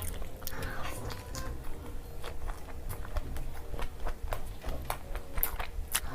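Close-miked eating sounds: chewing and biting with many short, irregular wet clicks and smacks.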